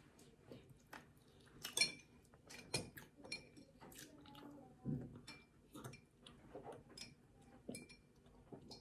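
A person chewing soft banana cake, with scattered small wet mouth clicks and smacks, all faint.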